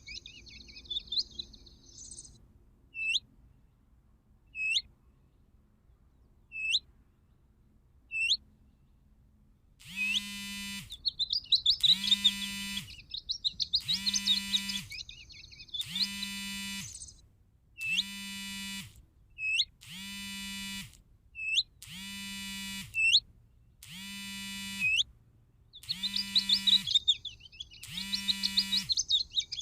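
Bird calls from a bird-trapping electronic caller. High chirping trills and single short sharp chirps come first. From about a third of the way in, a buzzy, distorted call of about a second repeats every two seconds, with chirping trills between the repeats.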